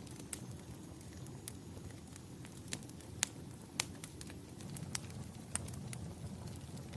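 Wood fire crackling in a fireplace: irregular sharp pops and snaps over a steady low rumble, with two louder pops a little past the middle.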